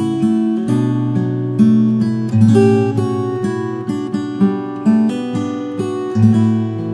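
Acoustic guitar playing a slow, relaxing instrumental, with plucked notes and chords that ring out and fade between strokes.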